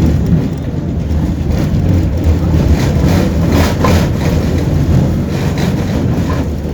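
Tram running between stops, heard from inside the passenger car: a steady low rumble of wheels on rails and traction motors, with a few faint knocks from the track about halfway through.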